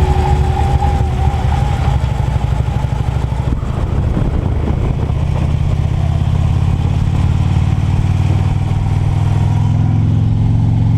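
Motorcycle engine running steadily while riding, a continuous low hum of engine and road noise.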